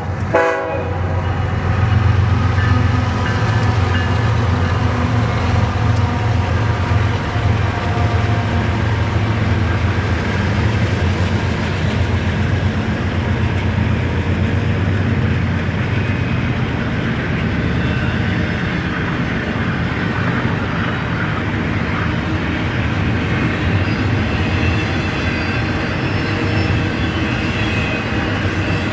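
The last moment of a diesel locomotive's horn cuts off just after the start. A BNSF diesel freight locomotive then passes with a low engine drone, strongest over the first ten seconds or so, giving way to the steady rumble of double-stack intermodal container cars rolling by.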